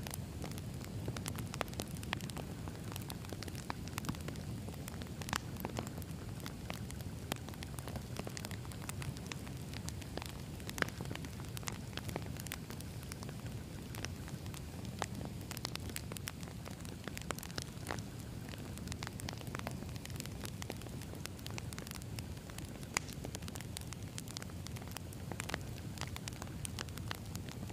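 Wood campfire burning: a steady low rumble of flames with frequent irregular crackles and pops from the burning logs, a couple of sharper pops about eleven and twenty-three seconds in.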